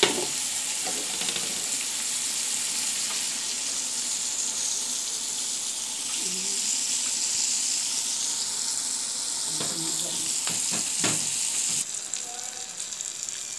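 Cabbage sautéing in a covered wok over a gas flame: a steady sizzle and hiss of steam, with a clink of the glass lid going on at the start and a few light knocks near the end. The sizzle grows quieter about twelve seconds in.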